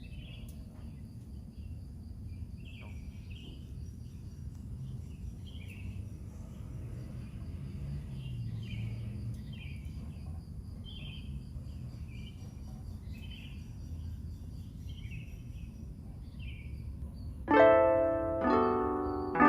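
Outdoor ambience with a low rumble and a bird giving short chirping calls about once a second, over a faint steady high pulsing tone. About three-quarters of the way through, loud plucked-string music, harp-like, begins and becomes the loudest sound.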